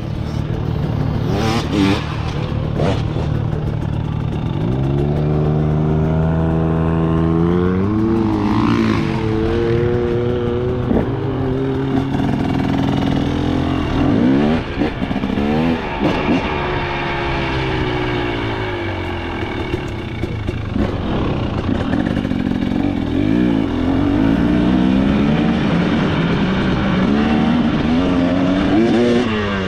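KTM 300 XC two-stroke dirt bike engine being ridden hard, its pitch climbing and dropping again and again as the throttle is opened and closed through the gears.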